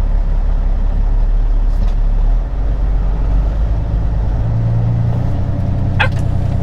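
Semi-truck diesel engine running steadily, its note shifting up a little about four and a half seconds in. A brief sharp click near the end.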